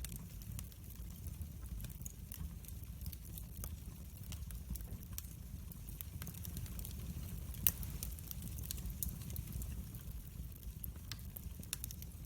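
Wood fire burning in a fireplace: a steady low rumble of flame with irregular sharp crackles and pops, one louder pop a little past halfway.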